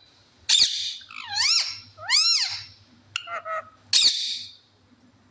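Pet parrot calling: about five short calls. There are sharp screeches about half a second in and again at four seconds, with rising-and-falling whistled calls between them.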